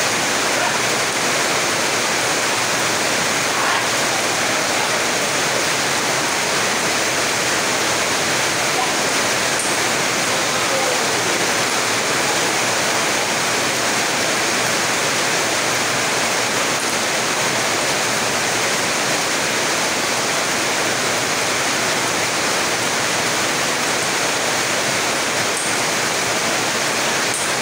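Steady rain, a dense even hiss that does not let up.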